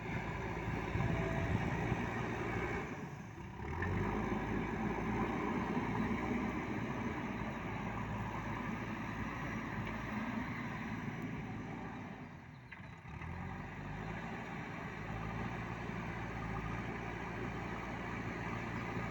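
JCB backhoe loader's diesel engine running steadily, its sound dipping briefly twice, about three seconds in and again around twelve seconds.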